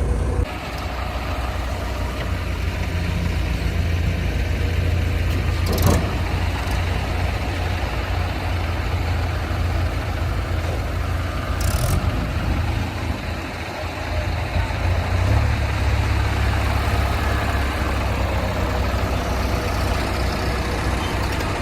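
Diesel engine of heavy machinery, a backhoe loader or tractor, running steadily with a deep rumble, with a sharp knock about six seconds in.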